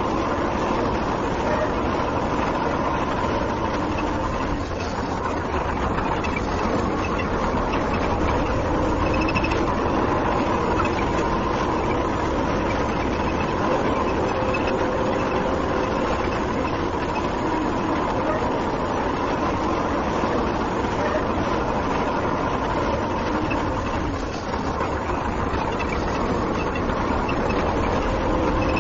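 Tractor engine running steadily as it pulls a trolley.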